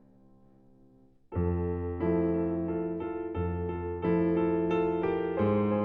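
Background piano music: soft sustained chords, faint at first, growing louder about a second in as new chords are struck roughly once a second.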